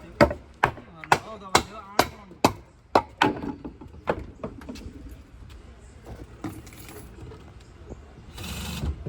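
Hammer blows on wood, a steady run of sharp strikes about two a second for the first three seconds, then a few scattered knocks. Near the end comes a short burst of rushing noise.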